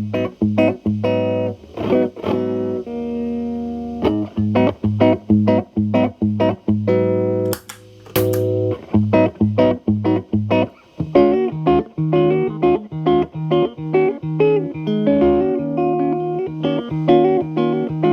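Electric guitar, a Telecaster through an MI Audio Crunch Box distortion pedal into a Marshall Valvestate amp's clean channel, played with the drive cleaned up. Picked chords and single notes, with a chord held about three seconds in, and from about eleven seconds in a low note ringing under quicker picked notes above it.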